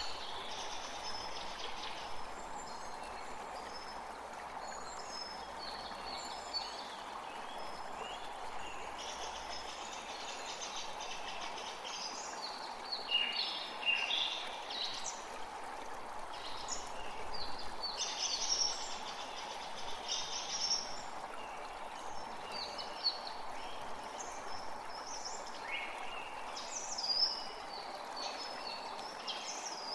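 Forest creek water running steadily, with songbirds calling and chirping over it in many short phrases.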